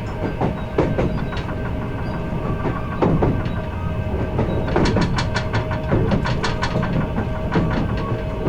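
Kintetsu 16600-series electric train heard from inside at the car end, running with steady rumbling and a steady tone. The wheels click over the jointed rails, with a quick run of clicks in the middle and more near the end.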